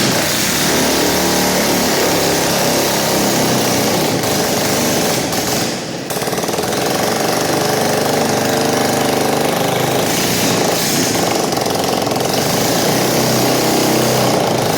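Motorcycle engine running loudly and steadily with a rapid rattling beat, dipping briefly about six seconds in.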